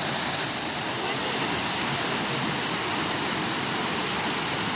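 Waterfall: a steady, loud rush of falling water, with no break or change.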